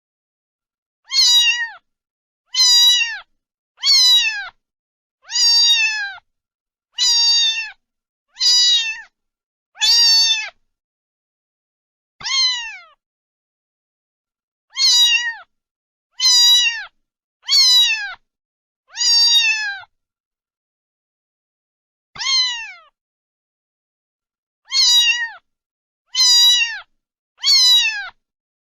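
A cat meowing over and over: about sixteen meows, each under a second long and falling in pitch, coming in runs of several with short pauses between.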